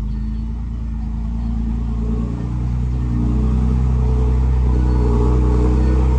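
A heavy construction machine's diesel engine runs with a deep, steady rumble. It gets louder over the first few seconds, then holds steady.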